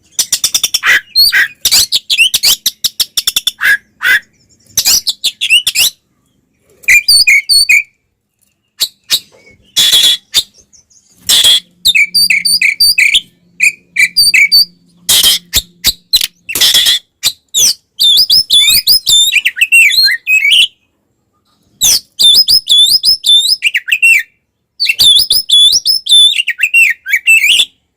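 Oriental magpie-robin (kacer) singing loudly in its aggressive 'fighting' style: fast bursts of varied sharp whistles, rattling chatter and harsh notes, broken by short pauses.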